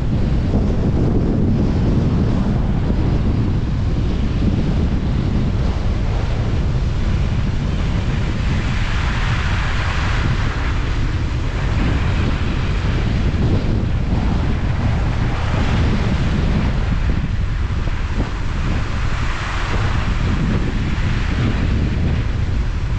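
Steady deep rumble of a car driving, with wind noise on the microphone and a hiss that swells up three times.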